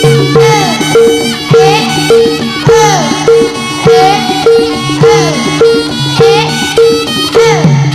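Instrumental Javanese turonggo horse-dance music: a drum-led rhythm with pitch-bending drum strokes over a short repeating melodic figure, played by the troupe's ensemble.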